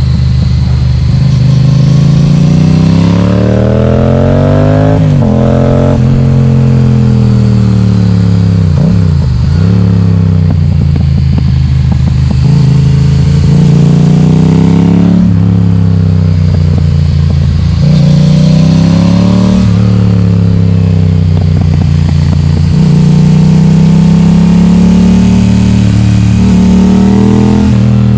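Loud Yamaha XSR700 parallel-twin engine through an Akrapovic exhaust with the baffle removed, under way on the road. The engine note rises under acceleration and drops off several times as the rider works the throttle and gears.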